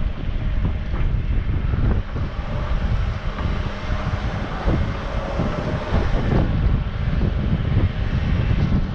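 Strong wind buffeting the microphone, a continuous gusty low rumble.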